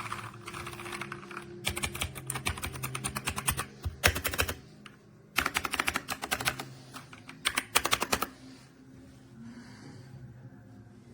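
Typing on a Dierya T68SE 60% mechanical keyboard with red switches: rapid key clicks in three bursts of a few seconds each, with short pauses between.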